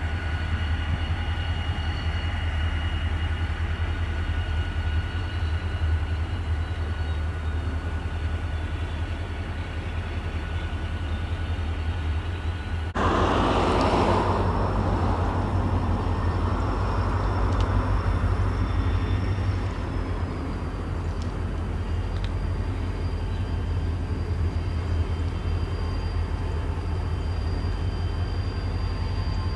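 Diesel locomotives moving a freight train of tank cars slowly through a rail yard: a steady low rumble with faint high-pitched squeals. About 13 seconds in a sudden loud hiss starts and dies away over a few seconds.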